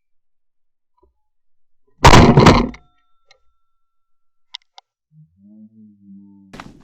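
Shotgun fire at a flushed chukar: a sudden, very loud blast about two seconds in that dies away within a second.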